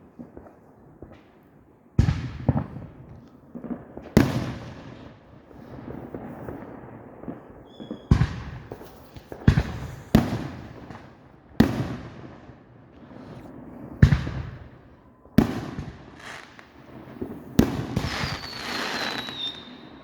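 Consumer fireworks going off close by: a quick run of sharp bangs, one every second or two after the first couple of seconds, with crackling between them. A whistling shell falls in pitch near the end.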